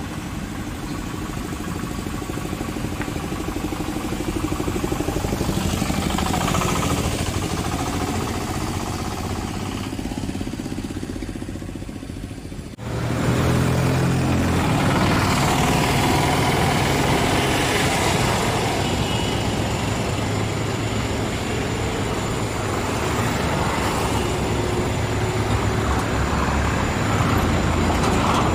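Freight wagons rolling along the track, then, after a cut, an EMD WDG4 diesel locomotive coming closer with a steady, low engine hum, louder than the wagons.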